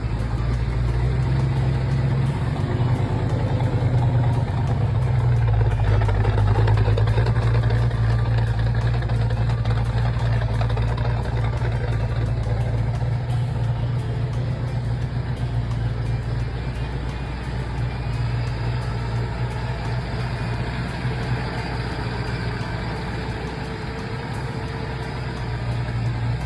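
A 1966 Ford Mustang's 289 V8 running steadily at idle through its exhaust, with a slightly stronger stretch a few seconds in.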